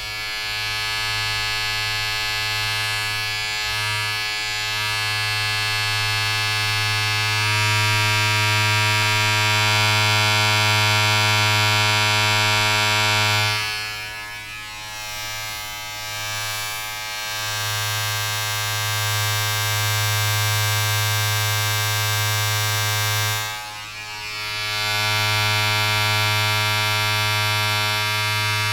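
Steady electric buzz of a small motor-driven appliance with a strong low hum. It sags and wavers for a few seconds about halfway through, dips again briefly a little later, and returns to full strength each time.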